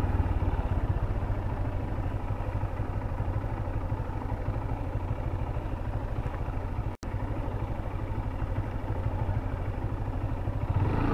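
Honda CB Hornet 160R's single-cylinder engine running steadily while the motorcycle is ridden, with road noise. The sound cuts out for an instant about seven seconds in.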